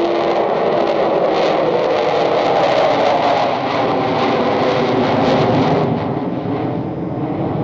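Avro Vulcan's four Rolls-Royce Bristol Olympus turbojets running loud and steady as the bomber flies by; the higher hiss drops away about six seconds in.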